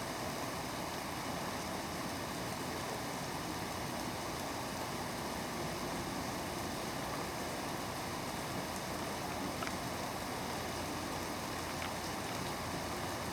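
Steady hiss of falling rain, with a couple of faint clicks.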